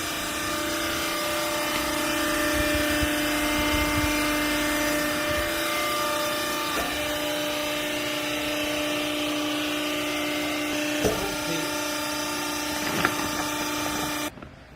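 Hydraulic baler's power unit (electric motor and pump) running with a steady whine, a couple of sharp knocks in the last few seconds, then it cuts off suddenly just before the end.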